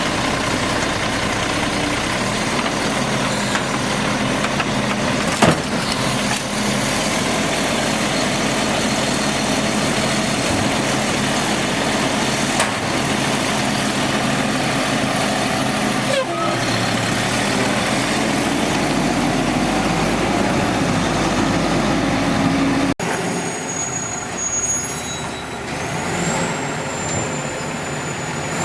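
Automated side-load garbage truck running, with its engine and hydraulics making a steady loud rumble and a couple of sharp knocks. Near the end the sound drops suddenly to a quieter truck sound with high, sliding squeals.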